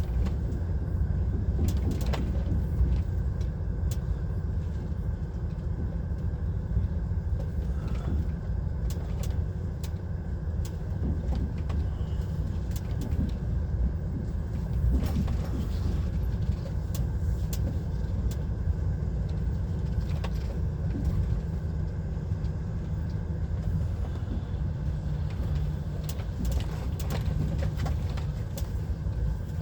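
Lorry's diesel engine running at low speed, heard from inside the cab: a steady low rumble with scattered sharp clicks and rattles.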